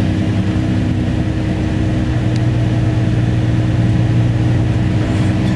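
Coach engine and road noise, a steady low drone heard from inside the moving bus.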